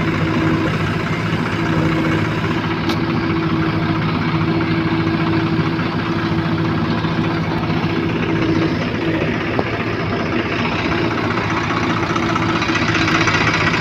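Heavy diesel engine running steadily at a low, even speed, growing a little louder near the end.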